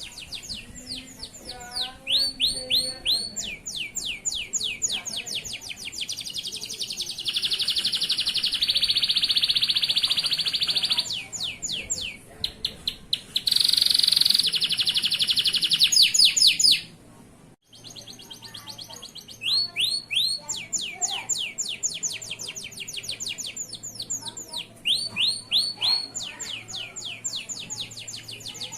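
Male canary singing continuously: fast runs of repeated chirps broken by two long, dense rolling trills of several seconds each. The song cuts out suddenly for a moment about two-thirds of the way through.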